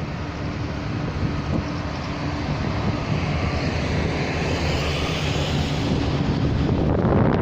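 A vehicle being driven: a steady engine hum with road and wind noise, growing gradually louder toward the end.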